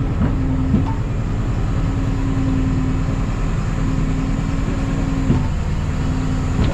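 Rollback tow truck's engine running steadily, a constant low drone with a steady hum on top.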